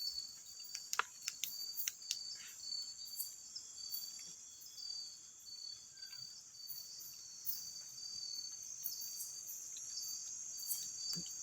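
Night insects in the forest chirping: a steady high-pitched drone with a short chirp repeating at an even rhythm, and a few faint clicks. No voices or crying can be made out.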